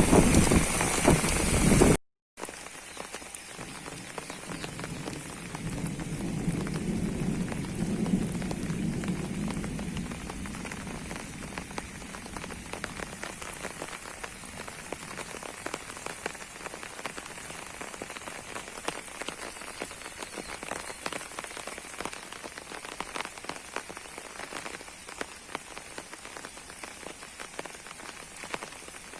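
Heavy rain falling and splattering on surfaces, a dense patter of individual drops. A low rumble swells and fades about five to eleven seconds in. A louder stretch of noise cuts off abruptly about two seconds in.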